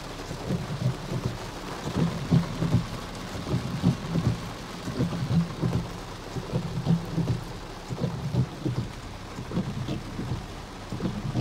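Torrential rain beating on a car's roof and windshield, heard from inside the car: a steady hiss with many irregular low thuds of heavy drops.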